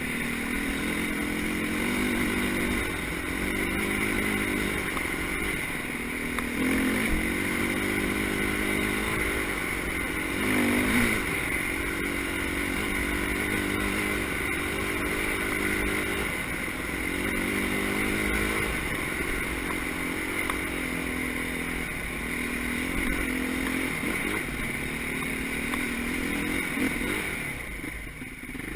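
Motocross motorcycle engines running on the track, the pitch climbing and dropping again every couple of seconds as the riders work the throttle and shift gears.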